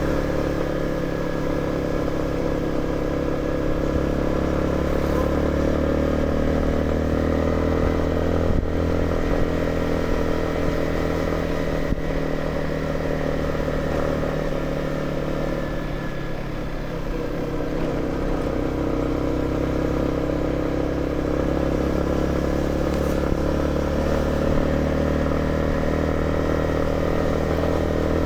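Motorcycle engine running steadily at cruising speed, heard from the bike as it is ridden, with road and wind noise. The engine eases off briefly a little past halfway, then picks up again.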